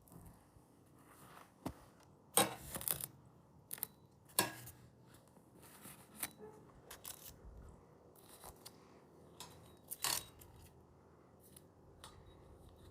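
Scattered light clicks and knocks of food and kitchenware being handled, with the sharpest ones about two and a half seconds in and about ten seconds in.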